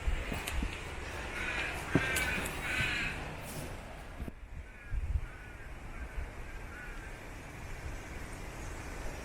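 A crow cawing: two loud, harsh calls about two seconds in, then several fainter calls in the second half. A few low thumps on the microphone.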